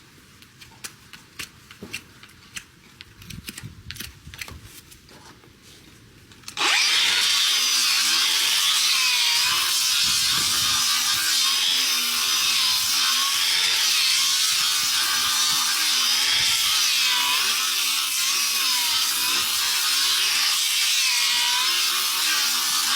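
Quiet scattered clicks and scrapes of hand-trimming on a horse's hoof. About six and a half seconds in, a handheld power tool starts suddenly and runs steadily as it grinds the hoof, its pitch wavering under load.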